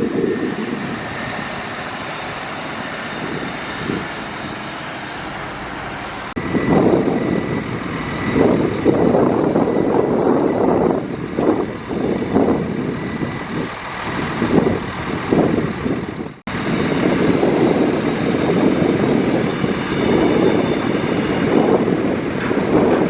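Diesel engines of heavy earthmoving machinery (bulldozer and dump truck) running. The sound is steady at first, then swells and dips irregularly from about six seconds in, as the machines work under load. It breaks off abruptly for an instant about two-thirds of the way through.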